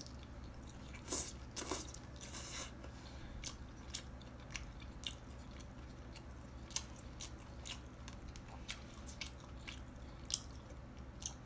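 A person chewing and biting lobster close to the microphone: scattered small wet clicks and crackles, with a run of louder crunching about a second in.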